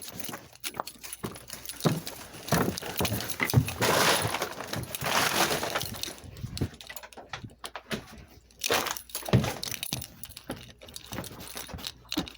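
Irregular knocks, clinks and rustling, like household objects being handled and moved about, with a longer rustling stretch about four to six seconds in.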